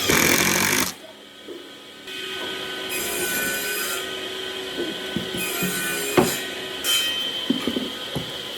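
Wood being worked with a tool: a loud burst of scraping or sanding noise for about the first second, then intermittent rubbing and scraping with a faint squeal and a few sharp knocks near the end.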